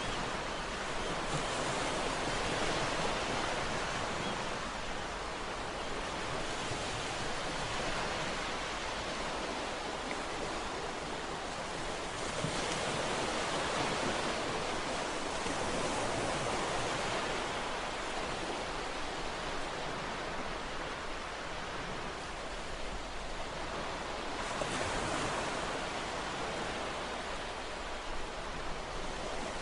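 Ocean surf washing ashore: a steady hiss of breaking waves that swells and eases gently every few seconds.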